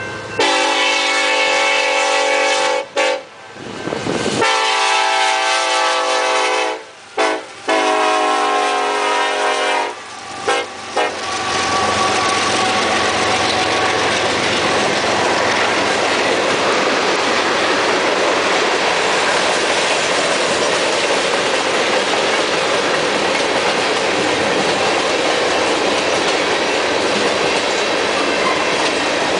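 BNSF EMD SD70-series locomotive's air horn sounding the grade-crossing signal: two long blasts, one short, one long. From about 11 seconds in, the steady noise of the tank cars' wheels running over the rail joints as the train passes close by.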